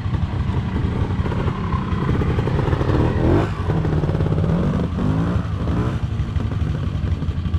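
Classic trials motorcycle engine running and being blipped as the bike is ridden through a section, its pitch rising and falling, twice in the middle.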